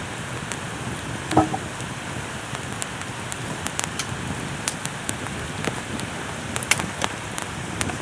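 Steady rain falling, with heavy drops landing as sharp, irregular taps, and one louder knock about a second and a half in.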